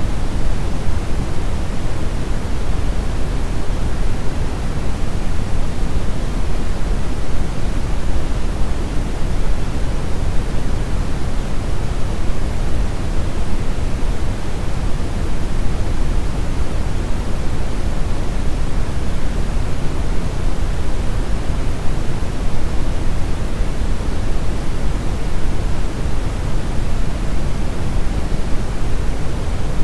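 Steady brown noise: a deep, even rushing hiss, strongest in the bass and fading toward the treble, with no change or events.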